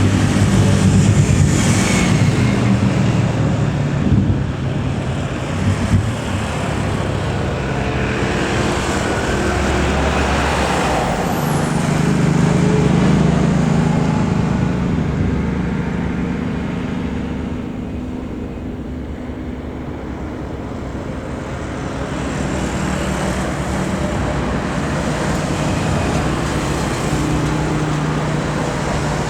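Steady roar of engines and road traffic that dips somewhat about two-thirds of the way through.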